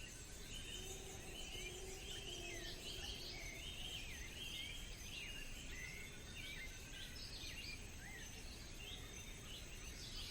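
Faint forest ambience of many small birds chirping continuously, with a lower drawn-out call in the first few seconds.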